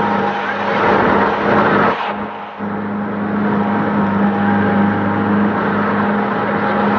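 A motor vehicle's engine running steadily: a constant hum under a rushing noise, which dips briefly a little after two seconds in.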